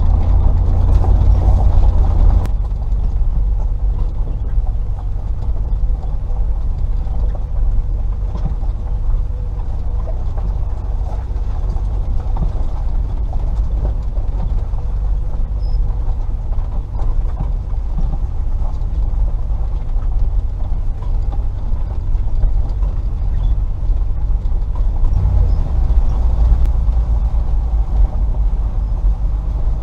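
Range Rover P38's 4.0-litre V8 engine running at low revs as the vehicle drives along a track, a steady low drone. It is louder for the first couple of seconds, then settles, and swells again near the end.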